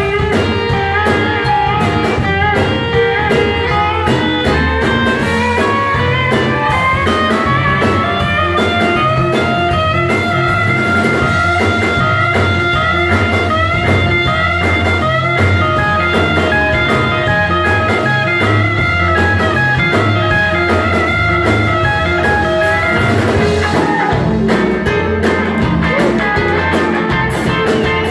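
Live rock band playing an instrumental passage: guitar over bass and drums, with no vocals.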